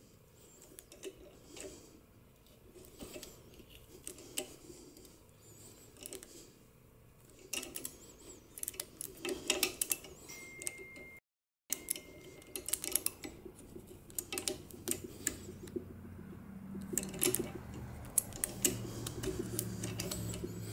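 Scattered light metallic clicks and ticks of a thread tap and tap wrench being worked back and forth by hand, cutting fresh 3/8-16 threads through the remains of a sheared bolt in an exhaust manifold.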